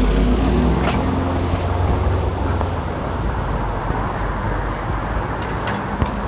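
Road traffic: a motor vehicle's engine rumbling close by, fading over the first few seconds into a steady background of passing traffic, with a sharp click about a second in.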